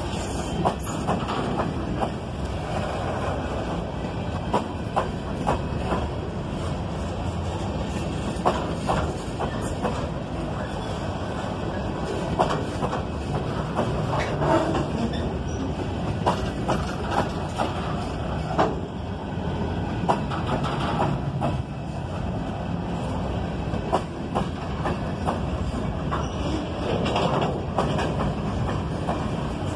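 Coal train cars rolling past at steady speed: a continuous rumble of steel wheels on rail, with frequent sharp clicks and clunks as the wheels cross rail joints.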